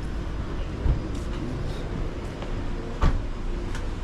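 Busy street-market ambience: a steady low rumble of activity, with two sharp knocks about a second in and about three seconds in.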